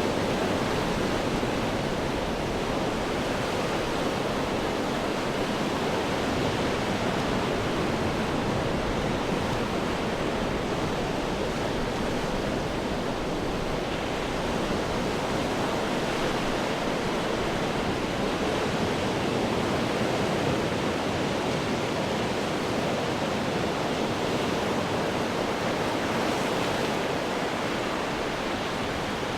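Ocean surf washing over rocks: a continuous dense rush of water noise that swells and eases gently without distinct single crashes.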